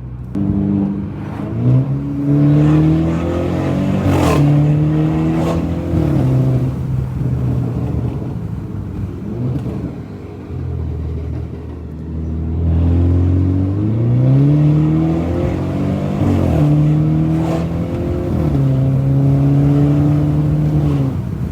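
Car engine accelerating hard, its pitch climbing and dropping back at each upshift, several times over.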